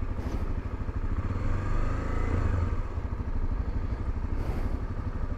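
Honda XRE 300's single-cylinder engine running at low revs in slow traffic, a steady pulsing beat that swells slightly about two seconds in.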